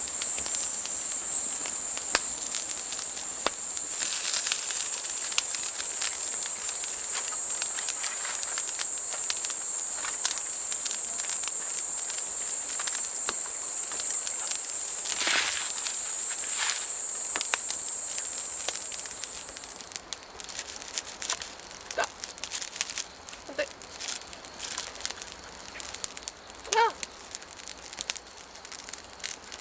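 A chorus of autumn insects, crickets among them, trilling steadily on one high pitch, which stops about two-thirds of the way through. Scattered light clicks and crackles continue after it, with a brief squeak near the end.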